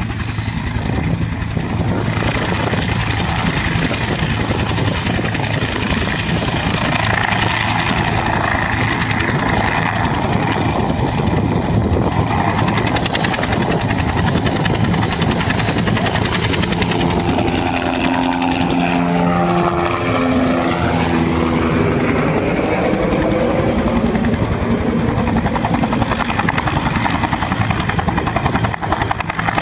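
Firefighting helicopter's engine and rotor running loud and steady. About two-thirds of the way through, its tone sweeps down and back up.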